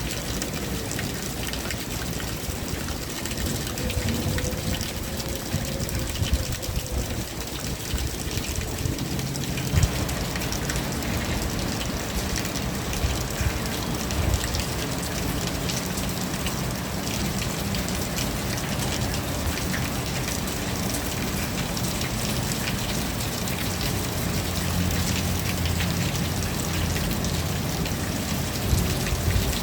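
Steady rain falling, an even hiss of drops. About ten seconds in, its lower, deeper part grows stronger and stays so.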